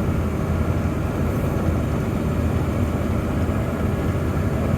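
Steady low engine and road drone inside a moving vehicle's cabin at cruising speed.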